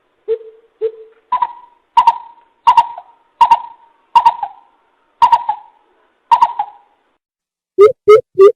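Coucal (bìm bịp) calling in deep, owl-like hoots, played as a bird-trapping lure call. Two lower hoots, then a steady run of higher hoots a little under a second apart. Near the end the call breaks into a quicker series of low notes.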